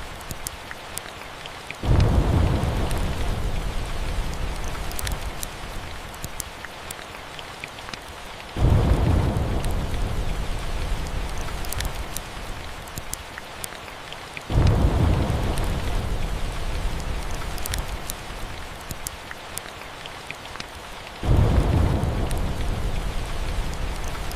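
Steady rain with four rolls of thunder, each breaking in suddenly and rumbling down over several seconds, about six to seven seconds apart. Light crackling from a fireplace runs underneath.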